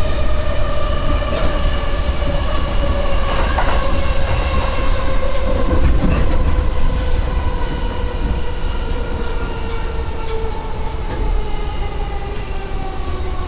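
Electric commuter train running, heard from inside the car: a rumble of wheels on rails under the whine of the traction motors, which slowly falls in pitch as the train slows for the next station.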